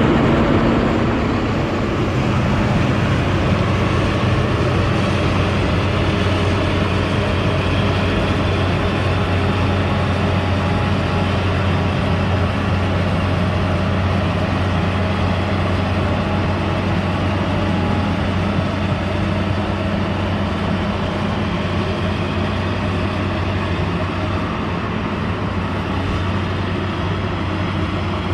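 Excavator's diesel engine running steadily under load, a continuous low drone that eases slightly about two seconds in and then holds.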